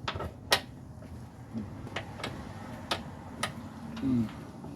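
Several sharp, separate clicks at uneven intervals from hand-tool work on a bolt of an engine mount.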